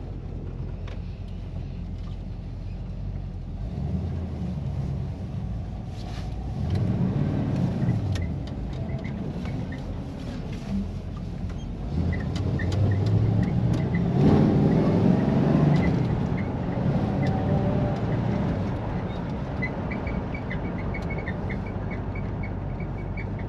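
1957 Chevy Bel Air with a four-speed manual on the road, its engine pulling harder and rising in pitch about seven seconds in and again from about twelve to sixteen seconds in, then easing back to a steady cruise. A faint, quick repeated high chirp comes and goes, in keeping with the unidentified squeak the driver complains of.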